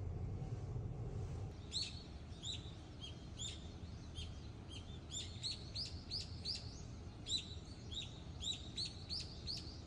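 Small birds chirping: many short, high chirps that sweep downward and repeat irregularly a few times a second, starting about a second and a half in, over a low steady rumble.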